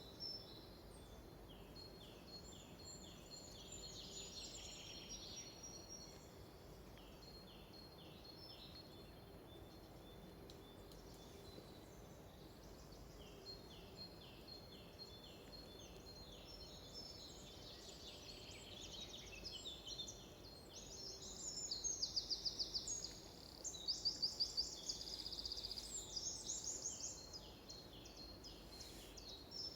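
Songbirds singing in a forest: series of short repeated falling notes and fast trills from more than one bird, over a faint steady background. The loudest, quickest trills come about two-thirds of the way through.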